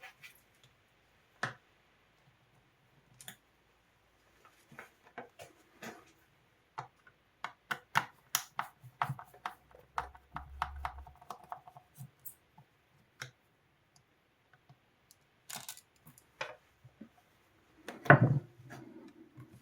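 Irregular small clicks and taps of hands handling tools and parts while working on a Sonos Playbar soundbar, busiest in the middle, with one louder knock near the end.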